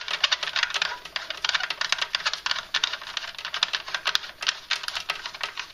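Rapid, irregular clicking and rattling as the Gaggia Achille 11400's boiler cap is turned down to seal the boiler, thinning out near the end.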